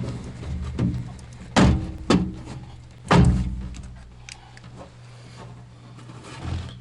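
A few sharp thunks and knocks, the loudest about three seconds in, over a steady low hum.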